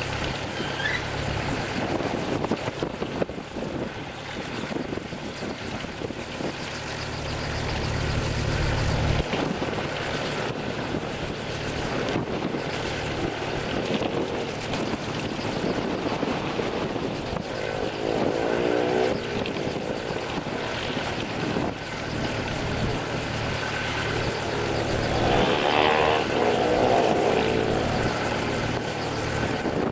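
Robinson R22 helicopter's piston engine and two-blade rotor running, a steady drone with a rhythmic rotor beat. It swells and wavers twice, a little past the middle and near the end, as the helicopter moves about.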